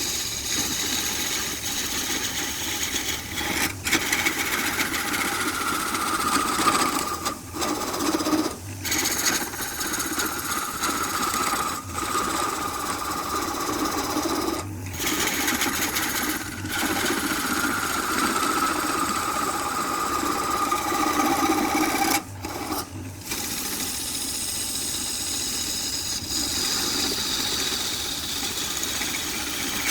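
A power tool running steadily, its whine slowly sliding in pitch, broken off briefly several times.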